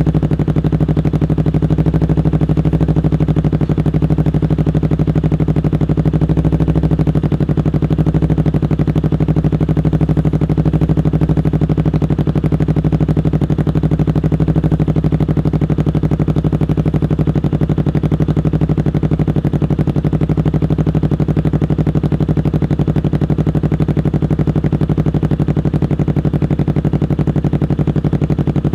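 Kawasaki Ninja 250 Fi's fuel-injected parallel-twin engine idling steadily, with an even pulsing beat that holds the same pitch throughout.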